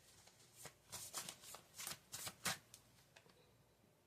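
Tarot cards being handled: a quick run of crisp card snaps and slaps for about two seconds, then it goes quiet.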